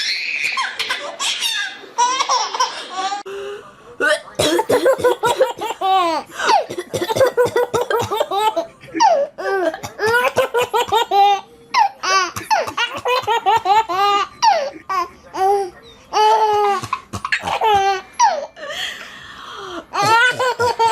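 A baby laughing hard, in runs of quick high-pitched peals that each drop in pitch, with brief pauses between the fits of laughter.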